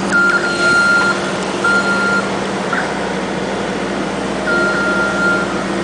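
Earth-moving machine's diesel engine running steadily, with its backup alarm sounding a high steady tone in several separate stretches of about half a second to a second.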